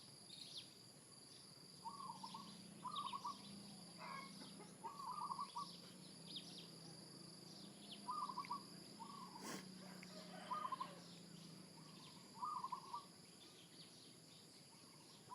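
Rural outdoor ambience: a short trilling call repeated about every second or two, over a steady high insect drone and scattered bird chirps. A single sharp click a little after halfway.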